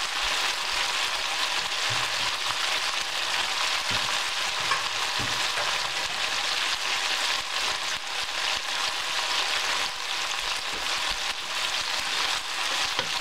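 Beef and bell pepper stir-fry sizzling steadily in a stainless steel skillet on the stove.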